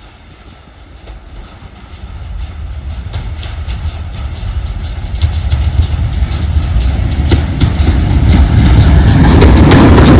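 Steam-hauled train approaching along the line, its low rumble and the regular clicks of wheels over rail joints growing steadily louder until it is close by at the end.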